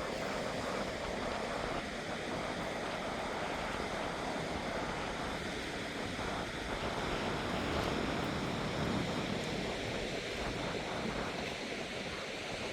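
Steady rushing noise of a rainstorm, rain and wind together.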